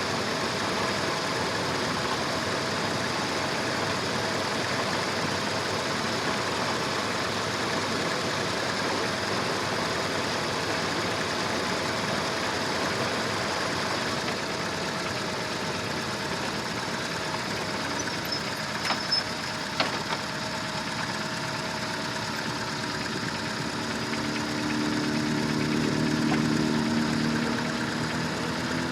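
A motor vehicle's engine running steadily, with a few sharp clicks about two-thirds of the way through. Near the end a second, lower engine note grows louder and shifts in pitch, then fades.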